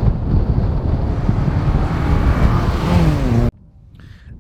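1975 Opel Manta's carburetted engine running hard as the car drives, with heavy wind and road noise. The engine note drops near the end, and the sound cuts off suddenly about three and a half seconds in.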